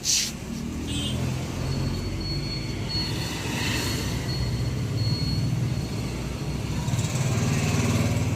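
Road traffic from the street: a motor vehicle's engine running close by with a steady low hum, and a thin high whine coming and going.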